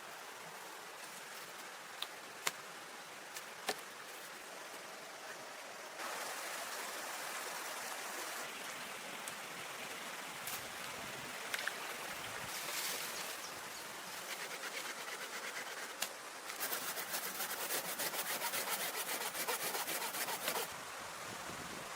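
Steady rush of flowing water, with a few sharp knocks in the first few seconds. Near the end comes a rapid scraping for about four seconds.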